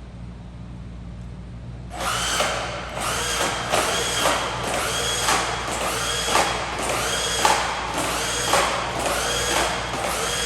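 Brushless electric motor of a Traxxas Hoss 4x4 VXL RC truck whining in repeated short bursts of throttle, about one a second, starting about two seconds in, each rising and falling in pitch. The truck is being throttled again and again as it tries, without success, to pull off a move.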